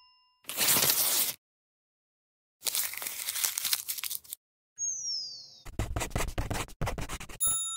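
Cartoon sound effects for paper: a sheet ripped off a pad, then a longer crumpling of it into a ball. A short falling whistle follows as it is tossed, then a burst of crackly rustling and knocks. A bell ding rings out near the end.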